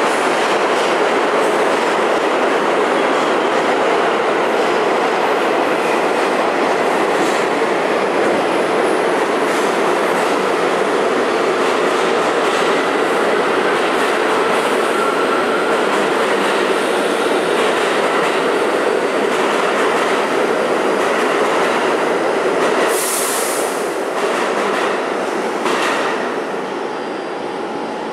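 An R32 subway train pulling out of the station: steady loud running noise from its wheels on the rails. A brief high-pitched wheel squeal comes near the end, and after it the noise falls off as the train moves away.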